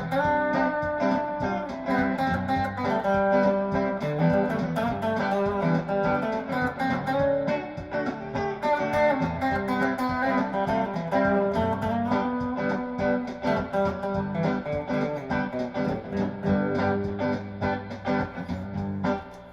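Donner DTC 100 Telecaster-style electric guitar played through a tube amp on its single-coil bridge pickup: a continuous run of picked single notes and chords.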